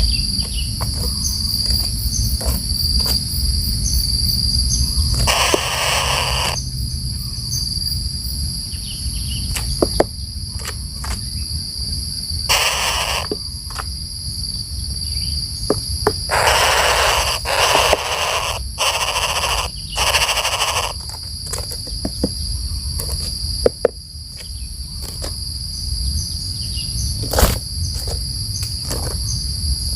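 Steady high-pitched insect drone, typical of crickets or cicadas, with scattered sharp clicks and several short bursts of noise through the middle.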